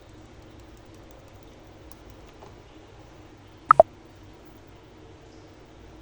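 Two quick, sharp taps of hard objects about a tenth of a second apart, just past the middle, each with a short ring, the second lower in pitch than the first.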